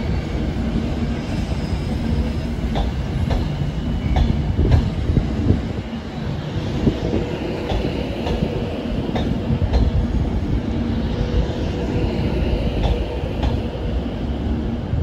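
Avanti West Coast Class 390 Pendolino electric train rolling slowly past along the platform: a steady rumble with a faint motor hum, and irregular clicks as the wheels cross rail joints, with a light wheel squeal.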